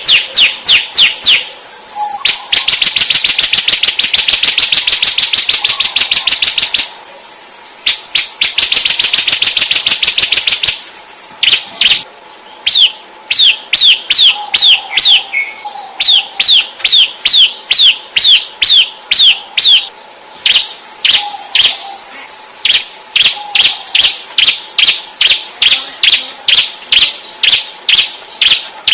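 A songbird call used as training song for white-rumped shamas: sharp, falling whistled notes repeated evenly a few times a second, breaking twice into fast rattling runs. A steady high-pitched insect drone sounds under it, dropping out for several seconds midway and returning.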